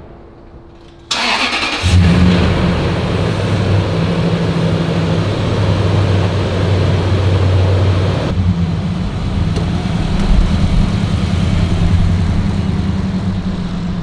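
Lexus GX470's 4.7-litre V8 engine cranked and catching about a second in, then running steadily with a low, even drone.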